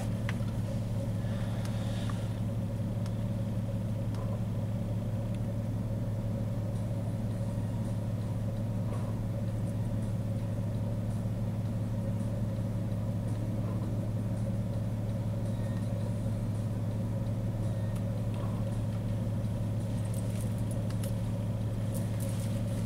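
Car engine idling, an even low hum heard from inside the cabin.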